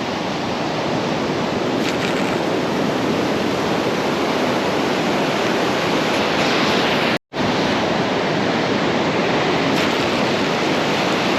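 Surf breaking on a beach, a steady loud wash of waves mixed with wind on the microphone. The sound cuts out completely for a split second about seven seconds in.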